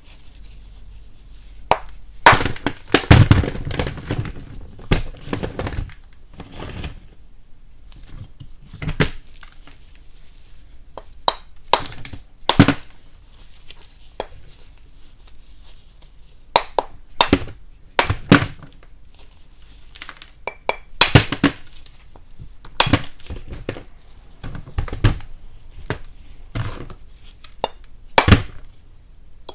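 Lumps of chalk being broken apart, giving sharp cracks and snaps with a little crumbling. A quick run of several breaks in the first few seconds, then single snaps spread out every second or two.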